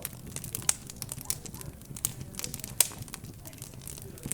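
Fireplace crackling: irregular sharp pops and snaps, the loudest near the end of the second third, over a low murmur of background chatter.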